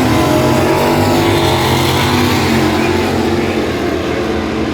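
Two Plymouth drag cars, a Barracuda and a Savoy, with their engines running hard in a pass down the drag strip. A steady, loud engine sound that eases off slightly near the end.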